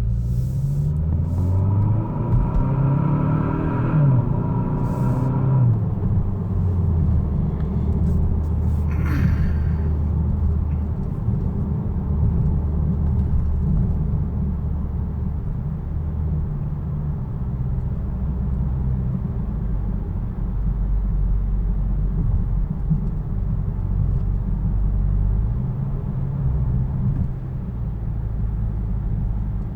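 Kia Stinger's 2.0-litre turbo four-cylinder through an NGM Delta axle-back exhaust, heard from inside the cabin: the engine revs up under acceleration over the first few seconds, shifts, then settles into a steady deep drone at cruise, with another short pull near the end.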